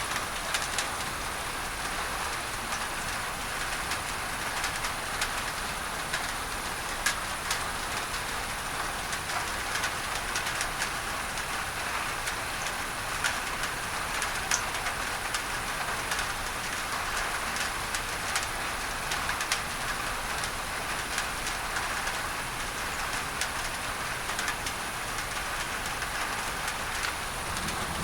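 Steady tropical rain falling on a tin roof, with many sharp drop ticks over a continuous pink-noise hiss.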